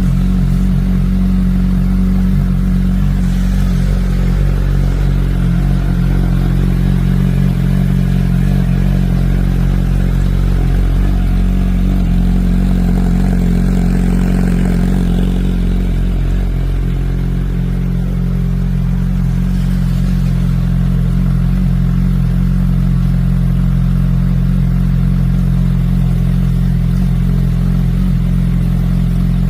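Suzuki Hayabusa inline-four motorcycle engine running through an aftermarket IXIL muffler, held at a steady speed with an even, deep exhaust note.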